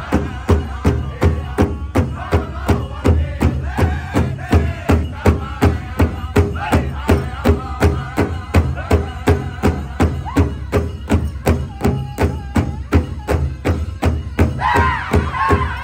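Powwow drum group: a large drum struck in steady unison beats, about three a second, with a group of singers chanting over it. A higher voice rises above the group near the end.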